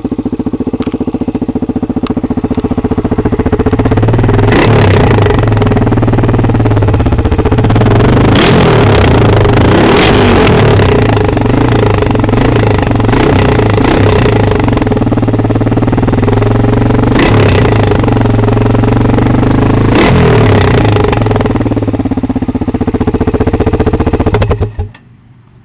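Honda 400EX ATV's single-cylinder four-stroke engine running loud through an open exhaust with the spark arrester removed, revved up several times between steady running. The engine sound cuts off abruptly near the end.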